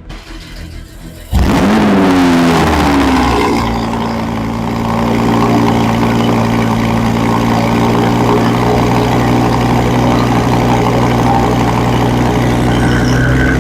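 Audi R8 V10 Plus's 5.2-litre V10 cold-starting: it fires about one and a half seconds in with a loud rev flare that falls away, then settles into a steady high idle.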